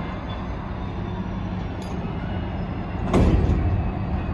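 Freight train of hopper wagons hauled by a Class 66 diesel locomotive, rolling past with a steady low rumble. A sudden loud burst of noise comes about three seconds in and fades within half a second.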